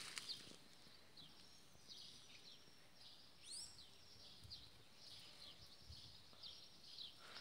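Faint bird chirps: short high falling notes repeated two or three times a second, with one rising call about three and a half seconds in.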